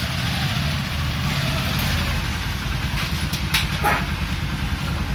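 Hero Honda Passion Plus motorcycle's single-cylinder four-stroke engine running steadily on a test ride after a clutch plate replacement, with a steady rushing noise over the engine note.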